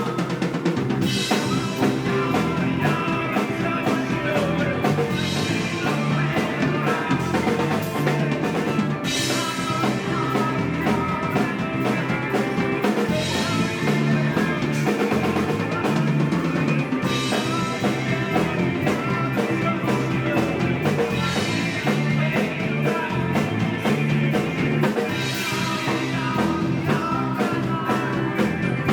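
Live rock band playing, the drum kit driving a steady beat under the full band, with a bright high wash returning about every four seconds.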